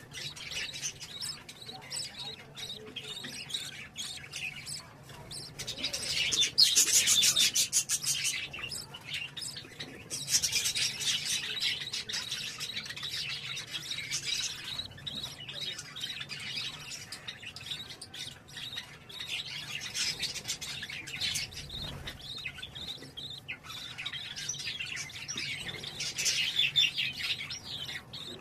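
Budgerigars chirping and chattering continuously, with louder bursts of rapid chirps about six seconds in, about ten seconds in, and again near the end.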